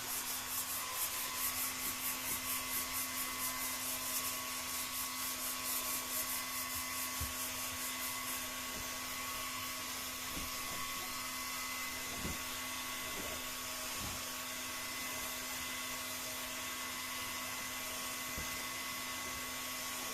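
Electric heat gun blowing steadily with a constant fan whine, heating the glued transom holders of a PVC boat to soften the adhesive. A rhythmic pulsing runs through roughly the first eight seconds before the sound settles.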